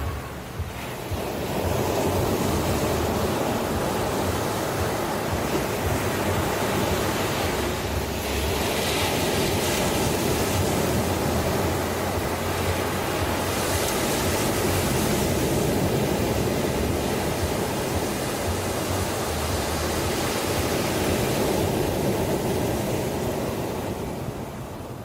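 Ocean surf: a continuous wash of breaking waves that swells up about a second in and eases off near the end.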